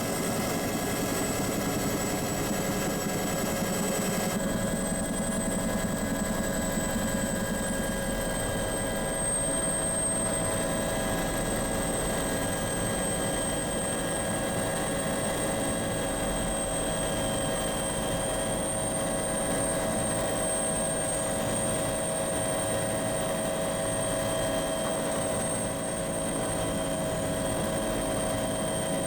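Steady engine drone heard from inside an aircraft cabin in flight, with several constant whining tones over the rumble.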